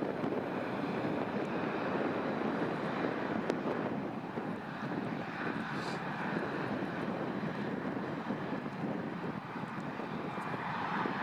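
Airliner engines running, a steady rushing rumble.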